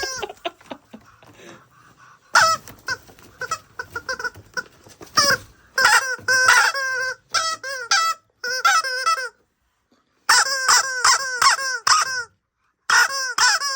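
Common raven giving quick runs of short, harsh, pitched calls in repeated clusters, with a brief pause about ten seconds in.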